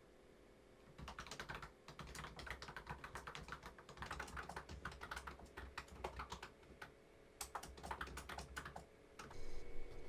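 Typing on a keyboard: quick, irregular key clicks in runs, starting about a second in and trailing off near the end.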